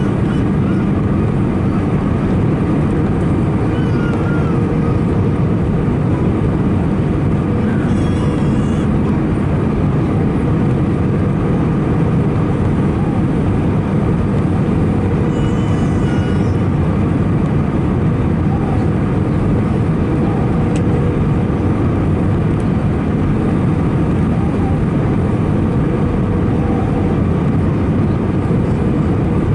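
Steady cabin noise of an Airbus A319 with CFM56 engines: a constant rush of engine and airflow noise under a low, even hum.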